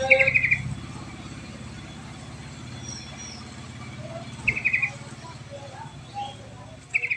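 Yellow-vented bulbul (trucuk) calling: three short bursts of quick, chattering notes, one near the start, one in the middle and one near the end. A steady low drone runs underneath.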